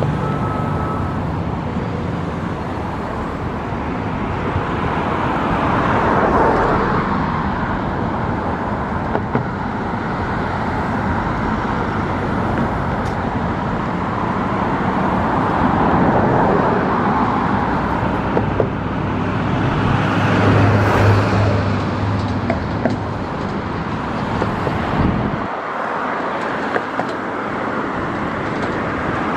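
Road traffic passing on a bridge: a continuous rush of tyres and engines that swells as individual vehicles go by, with a low engine hum from a heavier vehicle about two-thirds of the way through.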